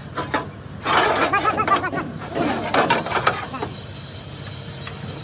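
People talking, with a few sharp clicks near the start, over a steady low hum.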